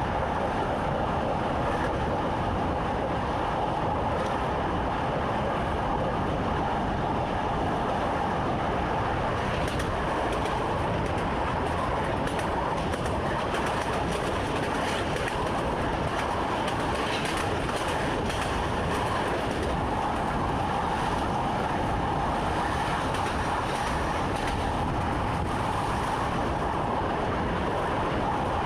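Passenger train running steadily along the line, a constant rumble of wheels on rails and running gear heard from inside the driver's cab.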